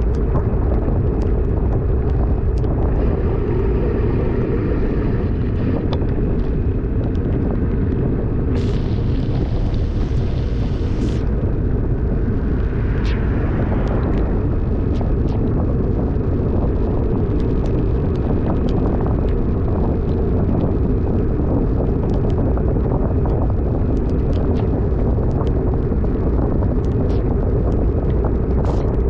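Steady wind rush on the microphone of a moving bicycle in heavy rain, with scattered short ticks and a brief hiss about nine to eleven seconds in.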